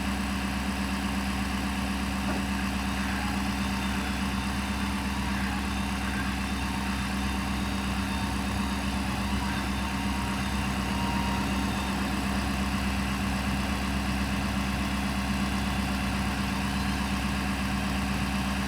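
2016 Ford F-550 Super Duty's 6.7L Power Stroke V8 diesel engine idling steadily.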